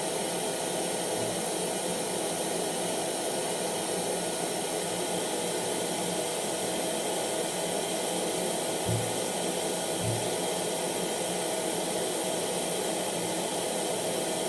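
Hair dryer running steadily: an even rushing of air with a fixed motor hum under it. Two faint low bumps come about 9 and 10 seconds in.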